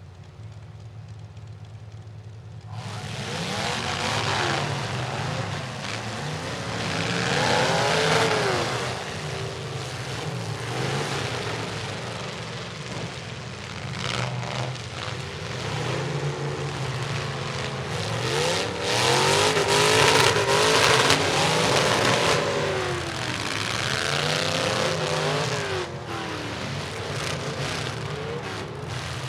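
Demolition derby trucks' engines running and revving hard, with pitch rising and falling over and over from several engines at once. The sound grows much louder about three seconds in.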